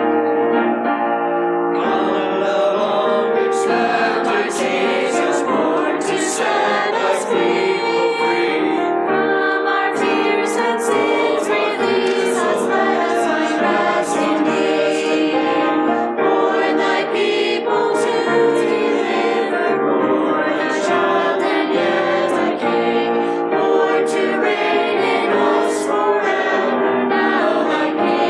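Church choir singing a Christmas cantata in parts with accompaniment, steady and full throughout.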